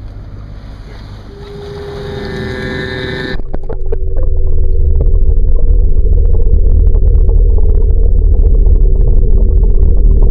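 Boat engine speeding up over the first few seconds, then running steadily under a loud low rumble with a constant hum from about three and a half seconds in.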